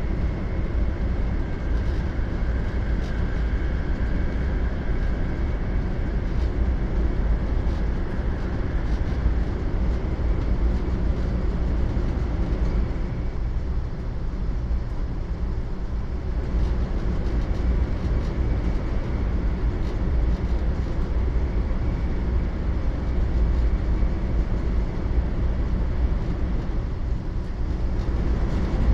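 Steady running rumble of a 500 series Shinkansen, heard from inside the passenger car, with a faint high whine over it.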